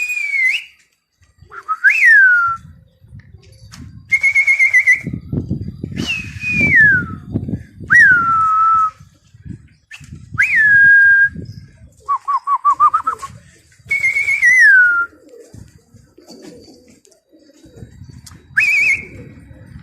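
A series of loud, clear whistles, about one every two seconds. Most slide down in pitch, and one near the middle is a quick warbling trill. A low rumble sounds under the whistles for a few seconds early on.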